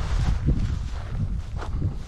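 Wind buffeting the microphone, with footsteps and rustling through vegetation.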